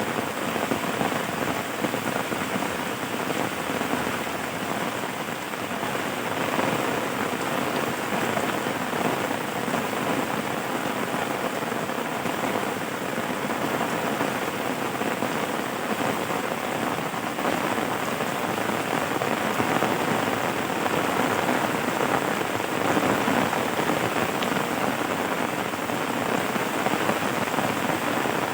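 Steady rain falling on a surface, a dense patter of drops with no lulls.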